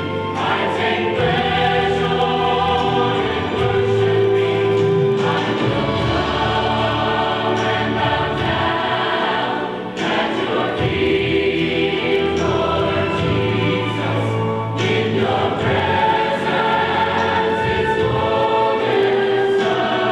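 A choir singing in long, sustained notes, with a brief break between phrases about ten seconds in.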